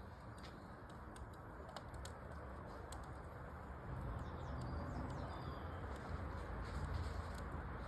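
Wood fire in a fireplace crackling, with scattered sharp pops over a steady low rush. A few short bird chirps come in around the middle.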